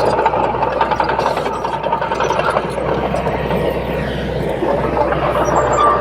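Komatsu D21P bulldozer's diesel engine running steadily as the machine works.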